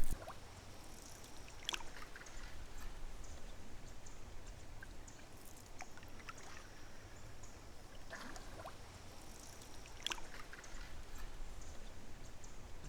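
Quiet river water trickling and lapping around a canoe, with a few faint scattered ticks and knocks.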